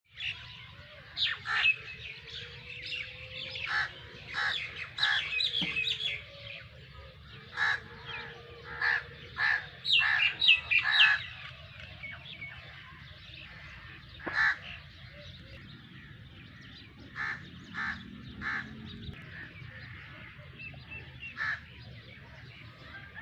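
Birds calling outdoors: many short repeated calls, thick and overlapping in the first half and sparser afterwards, over a steady low background noise.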